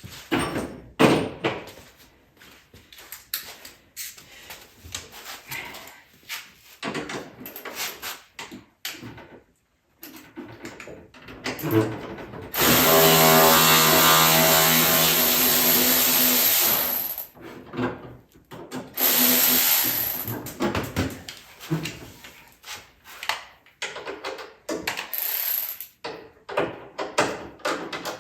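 Hand tools and parts clinking and knocking, then a power drill or driver running steadily for about four and a half seconds, followed by two shorter runs of it.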